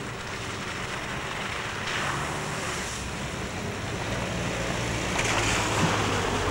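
Land Rover engine running as it drives slowly along a dirt track toward the listener and passes close by, getting louder near the end.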